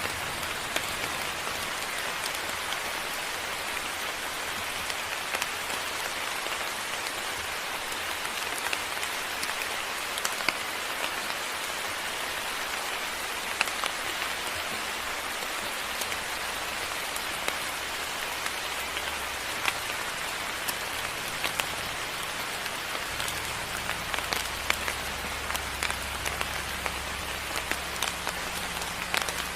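Steady moderate rain falling, with many sharp ticks of individual drops striking a surface. A faint low hum joins in about two-thirds of the way through.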